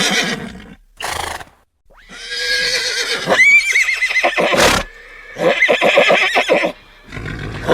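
Horse neighing: the end of one whinny, then two long whinnies whose pitch quavers rapidly, with short noisy bursts between them, and another whinny starting near the end.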